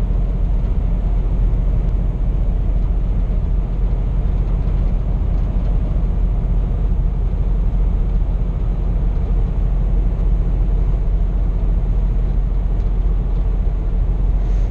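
Steady in-cab drone of a Scania P420 truck's diesel engine pulling a trailer at a constant cruising speed, with road and tyre noise and no changes in pitch or level.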